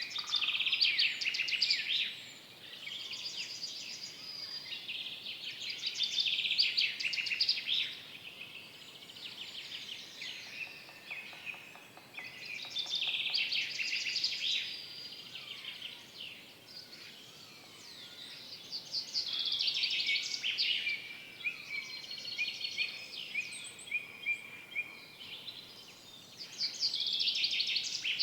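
Songbirds singing in a forest: bursts of quick, high-pitched song phrases and trills a few seconds long, returning every several seconds, with softer calls between them.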